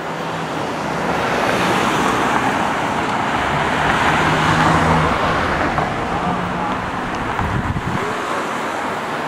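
Road traffic: a vehicle going past, its rushing noise swelling to a peak about halfway through and then easing off, over a low engine hum that comes and goes.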